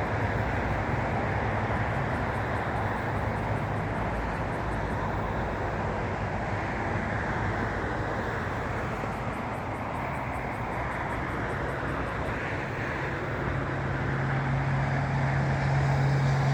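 Steady rumble of passing road traffic, with a low engine hum growing louder over the last few seconds as a vehicle approaches.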